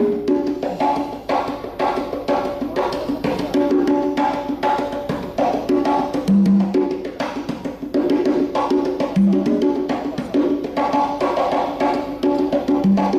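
Fast solo percussion playing: dense runs of pitched drum strokes mixed with sharp, wooden-sounding clicks, with a deeper drum note landing now and then.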